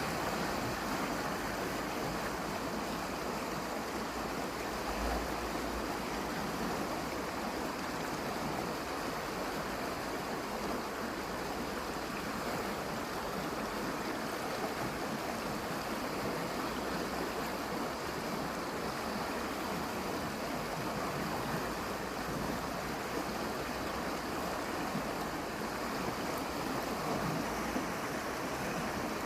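Steady rushing of water, an even noise that holds without a break.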